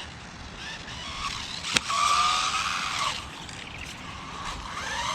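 Electric motor of a 1/12-scale RC buggy whining as it accelerates, with tyre and surface noise underneath. There are two bursts of speed, one about two seconds in and a rising one near the end. A sharp knock comes just before the first burst.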